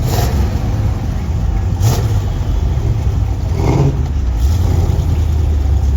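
Car engine with an aftermarket camshaft running at idle: a steady low rumble that settles a little lower in pitch about four seconds in.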